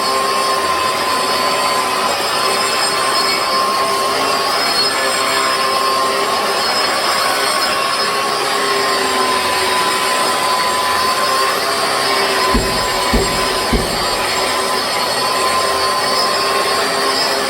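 Battery-powered Hilti 125 mm angle grinder with a diamond disc grinding a concrete ceiling: a steady, slightly wavering high whine over gritty grinding noise. Three short knocks come a little past two-thirds of the way through.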